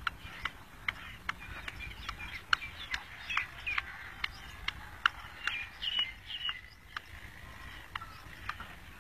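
Bird chirping: short sharp chip notes repeating about two or three times a second, with a few quick squeaky chirps midway.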